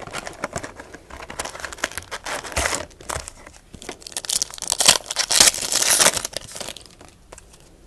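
Baseball card pack wrappers being torn open and crinkled by hand: an irregular run of crackling rustles that gets busiest about five to six seconds in and dies down near the end.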